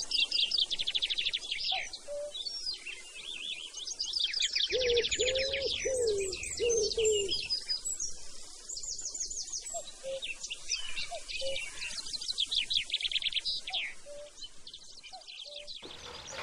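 Several birds chirping and singing in rapid high trills, with a lower call of five short notes about five seconds in. The birdsong stops shortly before the end.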